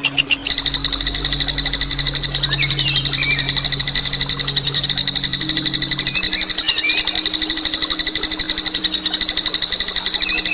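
A songbird's long, rapid, harsh rolling trill: a steady high-pitched rattle of many notes a second, broken only briefly a few times. Fainter chirps from other birds sound beneath it.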